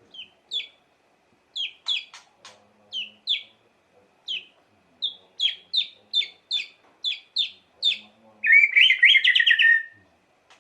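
White-rumped shama (murai batu) singing: a string of short, clear whistled notes, each falling sharply in pitch, with a few sharp clicks among them. Near the end comes a louder, rapid warbling phrase.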